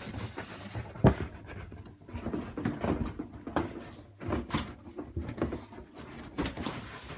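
Cardboard box being tipped up and handled, with irregular rustling and scraping and a sharp knock about a second in.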